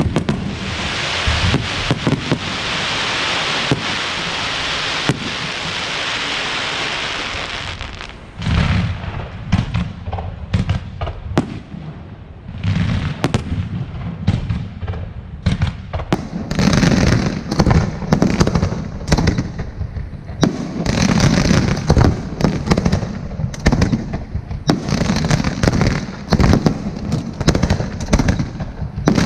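Aerial fireworks display: about eight seconds of dense, steady crackling hiss, then a rapid string of bangs and booms, several a second, that keeps going.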